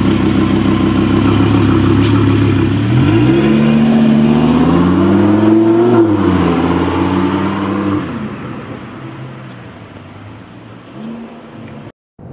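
Audi R8 V10 Plus's V10 engine through an Armytrix titanium exhaust: a steady note, then about three seconds in the revs climb for a few seconds, drop and hold briefly, and after about eight seconds the sound falls away and fades out.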